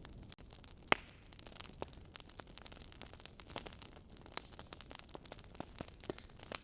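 Wood fire crackling in a fireplace: irregular small pops and snaps over a soft hiss, with one sharper pop about a second in.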